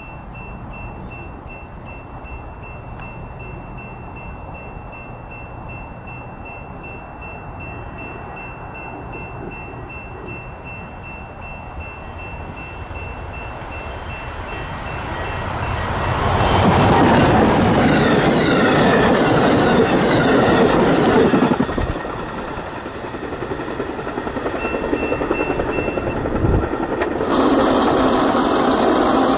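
Amtrak Illinois Zephyr passenger train approaching at speed. Its rumble grows steadily louder, peaks for about five seconds past the middle as the train rushes by, then drops away. Near the end a new loud, steady sound made of several tones sets in.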